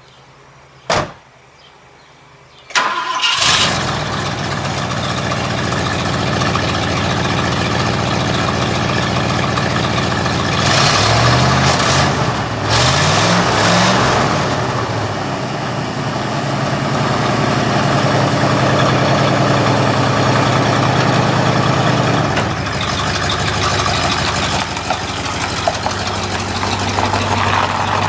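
1966 Ford Thunderbird's V8 starting: a single click about a second in, the engine catching suddenly near three seconds, revving up and down a few times around the middle, then running steadily.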